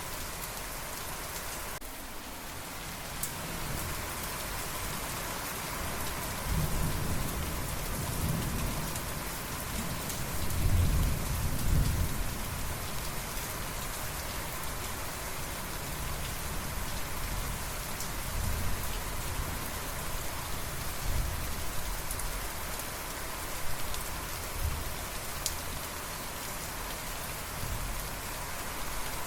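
Steady rain falling, with a roll of thunder: a low rumble builds from about six seconds in, is loudest around ten to twelve seconds, then fades into fainter rumbles.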